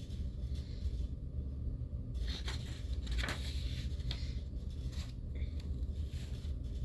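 Paper rustling and scraping, a few brief bursts about two to three seconds in, as manga pages are handled, over a steady low hum.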